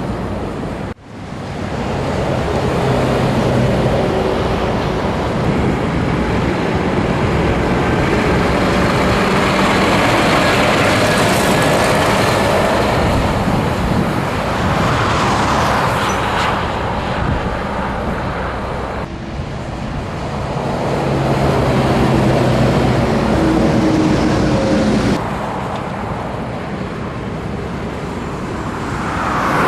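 Scania truck under way on the road: the engine runs steadily under a dense, loud wash of road and wind noise. The sound drops out for a moment about a second in and changes abruptly twice later, and a few louder swells come and go, like other vehicles passing.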